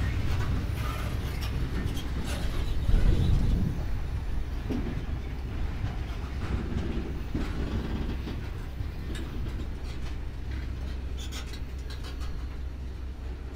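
Freight train of BSSC JUA open box wagons rolling past: a steady low rumble with wheels clicking over the rail joints and a heavier knock about three seconds in, slowly growing quieter.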